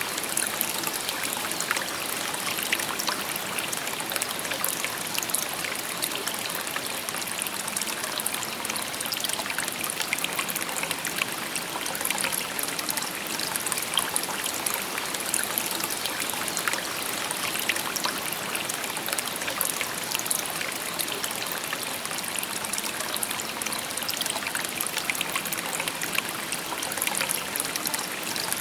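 Shallow stream babbling steadily, water trickling and splashing over stones with a continuous bright, fine-grained rush.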